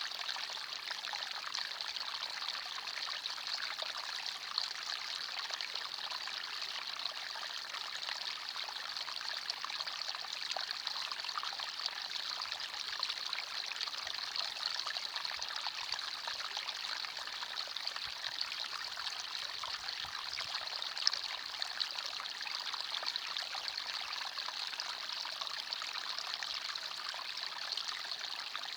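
Forest stream: water running and trickling over stones in a steady, even rush.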